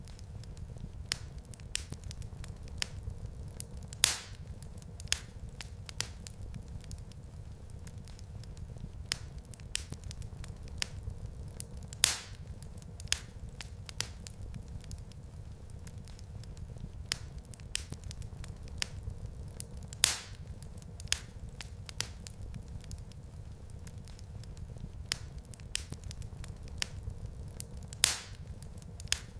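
Wood fire crackling in a fireplace: a steady low rumble of the flames with many small snapping crackles, and a louder pop about every eight seconds.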